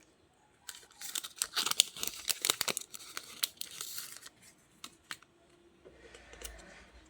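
Paper being handled close to the microphone: a dense crackling, rustling stretch of about three seconds, then lighter rustles and a faint low rumble near the end.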